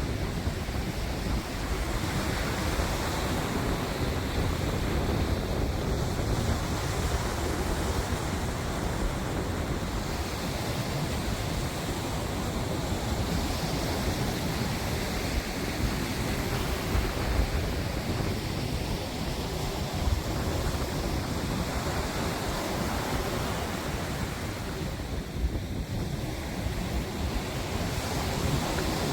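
Wind gusting across the microphone over a steady rush of surf, with no break.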